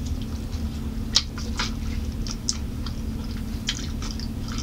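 Close-miked chewing and lip-smacking of a person eating chicken wings by hand: a handful of short, wet clicks spread irregularly over a steady low hum.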